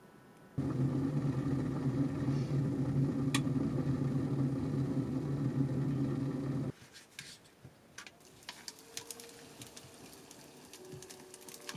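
A small electric motor running steadily for about six seconds, switched on and off abruptly, followed by light clicks and clatter.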